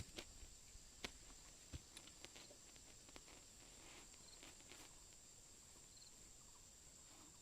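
Near silence, with a few faint clicks in the first two and a half seconds over a steady, thin, high-pitched tone.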